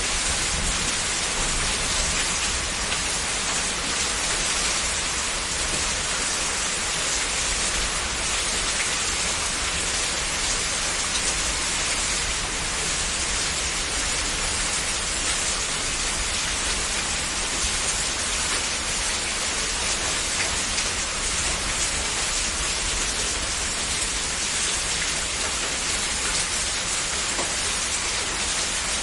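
Heavy rain falling steadily, a dense even hiss of drops with no breaks or distinct single impacts.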